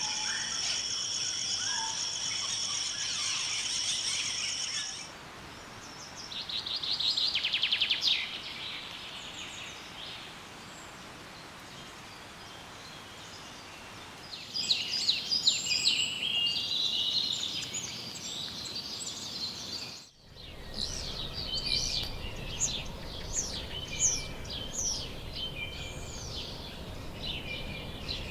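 Tropical forest sounds: a steady high insect chorus at first, then a short rapid trill, then a run of quick high bird calls and downward-sweeping chirps. The sound changes abruptly twice, once about five seconds in and again near twenty seconds, where one recording is cut to the next.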